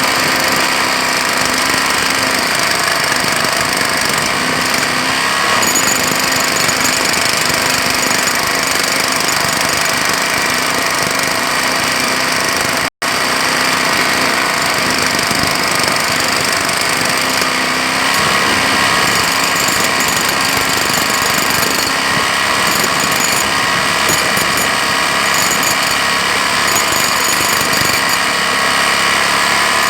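Jackhammer running continuously, its rapid hammering steady and loud, with a split-second dropout about thirteen seconds in.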